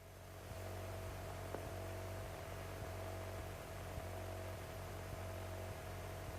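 1948 Cessna 140's engine droning steadily in cruise descent, heard faintly as a low hum with hiss and a thin steady tone above it.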